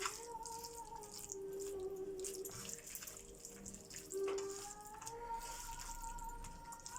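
Wet squelching and squishing of raw chicken pieces being mixed by hand with oil and ground spices, under faint steady tones that hold and bend slowly.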